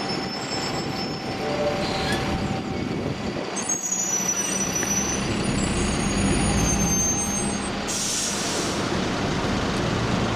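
Buses running at a busy bus station, with a steady engine hum under the traffic noise. A short hiss of released air, as from a bus's air brakes, comes about eight seconds in.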